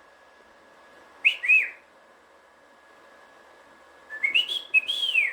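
Cockatiel whistling: a quick two-note whistle, then a longer phrase of rising and falling whistled notes near the end.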